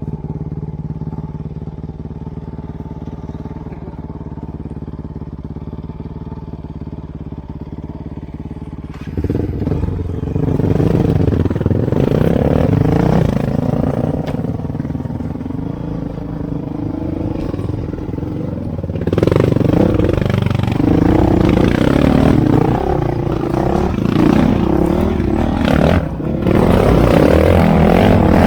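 Off-road trail motorcycle engine idling steadily, then about nine seconds in it gets much louder and keeps revving up and down, as under throttle and riding.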